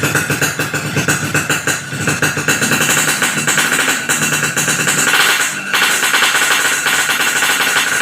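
Motorcycle engine running loud through an Alteck C17 aftermarket exhaust with a baffle insert, a dense rapid rasping note that briefly drops about two-thirds of the way through.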